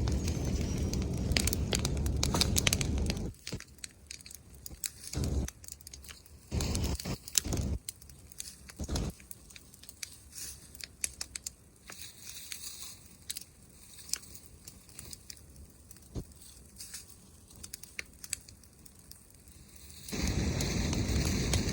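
Wood bonfire crackling and popping with sharp irregular snaps. A loud, even rushing noise fills about the first three seconds, drops away suddenly, and returns near the end.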